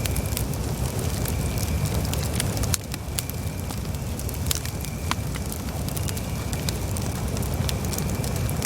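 Wood campfire burning, with a steady low rumble of flames under irregular sharp crackles and pops.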